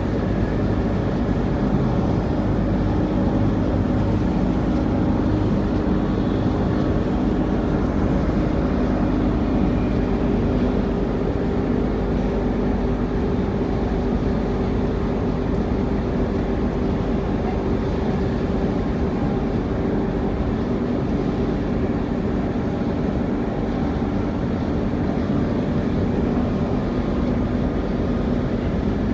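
Cabin noise inside a Bombardier B-series electric train running steadily: an even rumble of wheels on track with a steady motor hum.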